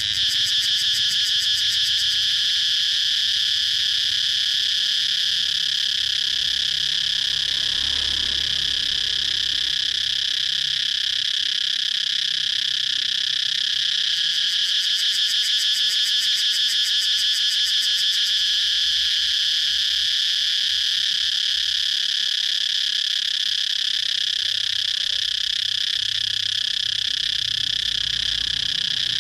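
Cicadas singing: a continuous high, shrill buzz that holds steady throughout, with a fast, fine pulsing near the start and again about halfway through.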